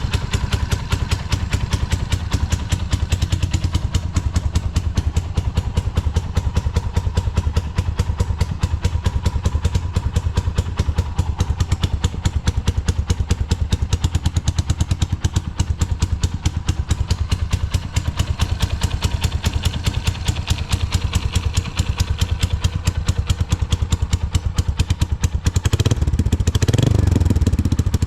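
Suzuki Grasstracker Big Boy's single-cylinder four-stroke engine idling through a Supertrapp megaphone full exhaust, with an even, steady pulse, then revved briefly near the end. It runs cleanly, with no abnormal noises.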